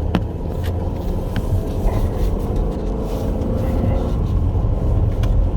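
Cabin noise of a moving Chevrolet Captiva SUV: a steady low rumble of tyres and engine, with a few faint ticks.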